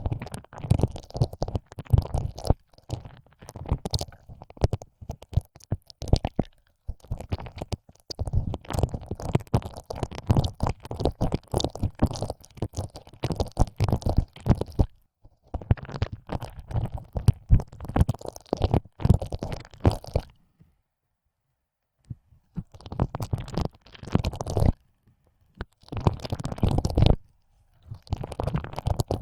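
Close, wet tongue-licking sounds in an ear: a tongue pushed in and out of the ear hole, giving dense wet clicks and squelches in runs of a few seconds with short pauses between them.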